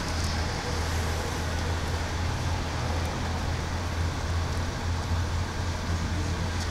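1972 Dodge Challenger's engine idling steadily with a constant low hum, heard close up from the front grille.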